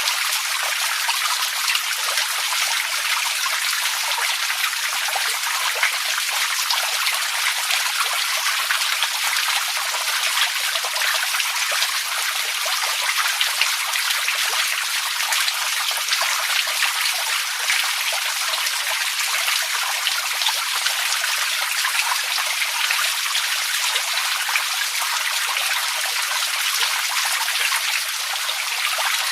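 Water running steadily, with a dense patter of small splashes and drips over a constant hiss.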